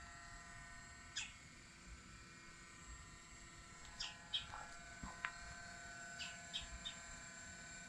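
Faint birds chirping now and then, a few short chirps about a second apart, over a steady faint hum.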